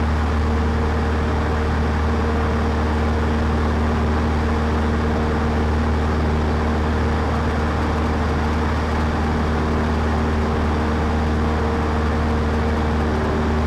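Cessna 152's four-cylinder Lycoming engine and propeller droning steadily in cruise flight, heard from inside the cockpit with a constant low hum and steady tones above it.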